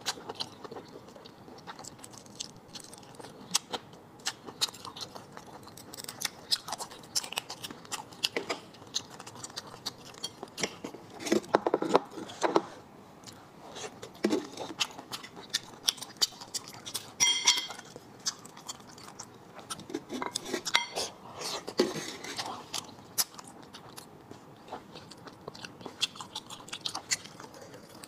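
Close-miked chewing of soft cooked clam meat: irregular wet mouth clicks and smacks, with a few louder bouts of chewing. There is one brief light clink about seventeen seconds in.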